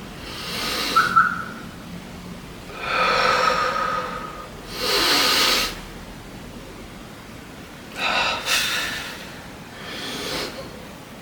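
A person breathing hard from exertion: about five deep, noisy breaths, each half a second to a second and a half long, with short gaps between.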